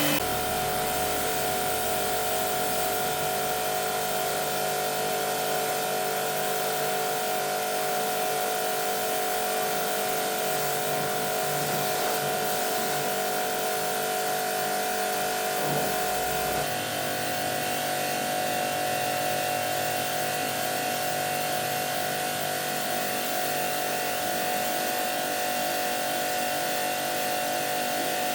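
A small electric motor whirring steadily, with a hiss over a few fixed tones; about 17 seconds in its low rumble drops away and its tone shifts slightly.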